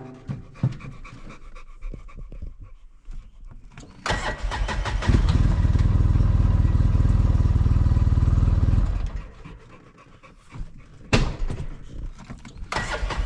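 A vehicle engine starting about four seconds in and running steadily, falling quiet a few seconds later, with a sharp knock and the engine running again near the end.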